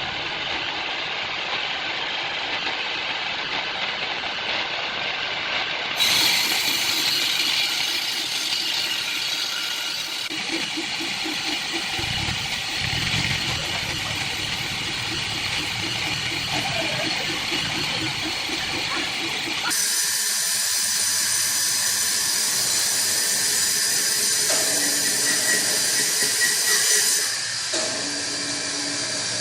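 Woodworking machinery running with a steady hissing noise, changing abruptly several times as different shots are cut together. Through the middle it carries a fast, even rhythm.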